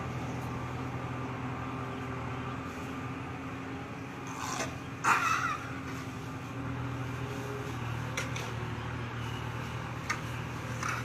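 A steady low mechanical hum, like an engine running, with one brief, loud, high-pitched sound about five seconds in.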